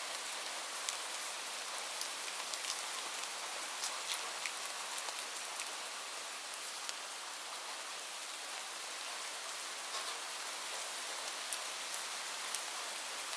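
Steady rain falling, an even hiss with scattered sharper drips of single drops striking a surface.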